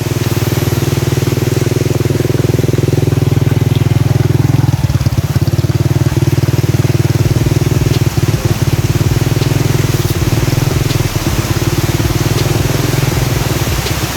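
Motorcycle engine running steadily and loudly close by, with a fast, even firing pulse.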